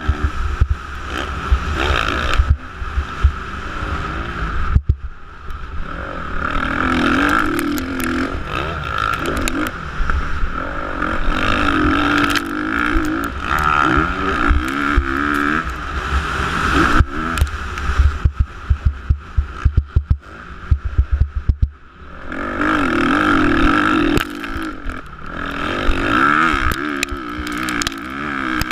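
Motocross motorcycle engines revving up and down, their pitch repeatedly rising and falling as the throttle opens and closes, over a heavy low rumble. The sound drops away briefly twice, about five seconds in and again past the twenty-second mark.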